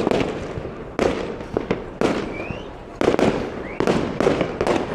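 Fireworks going off in a rapid, irregular string of loud bangs and crackles, several a second, each echoing away, with a short rising whistle now and then.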